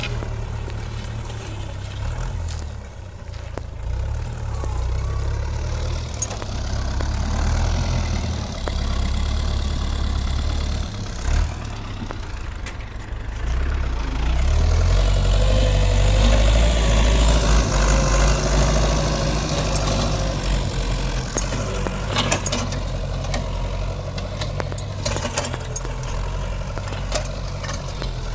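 Farm tractor's diesel engine running steadily while pulling a plough through the soil, growing louder for several seconds about halfway through before easing back.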